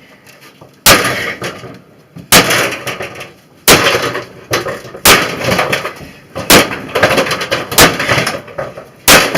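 Sledgehammer smashing a battered microwave oven: seven hard strikes about every second and a half, each followed by a brief clatter of loose broken pieces.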